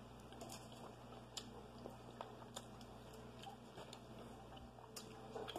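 Faint eating sounds: quiet chewing of seafood with scattered small sharp clicks, over a low steady hum.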